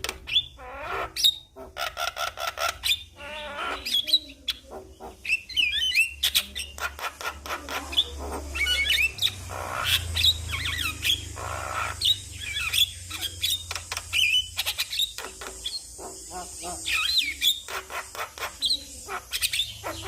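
Javan myna (jalak kebo) singing a long, varied song: whistled phrases, harsh chattering notes and fast runs of clicks, one after another without a break.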